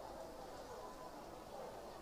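Faint murmur of voices in the background, low and steady, with no recitation.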